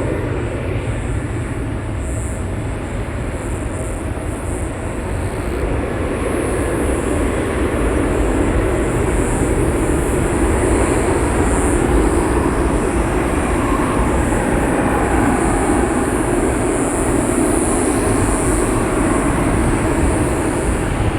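Boeing 737-800 jet airliner's CFM56 turbofan engines at takeoff power. A steady heavy noise that builds about six seconds in and then holds.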